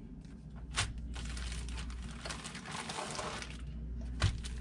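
Crinkling and rustling of something being handled, with a sharp knock about a second in and another near the end, over a steady low hum.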